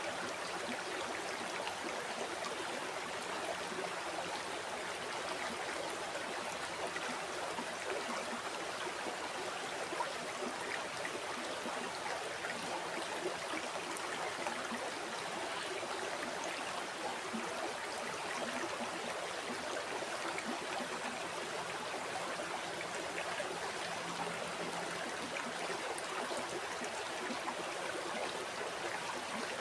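River water flowing steadily over stones, an even rushing babble with small gurgles and no pauses.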